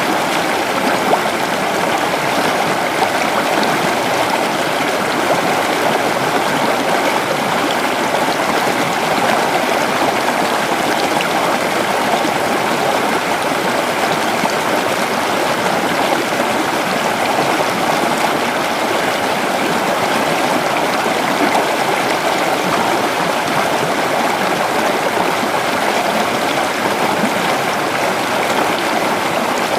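A creek running over rocks: a steady, continuous rush and babble of flowing water.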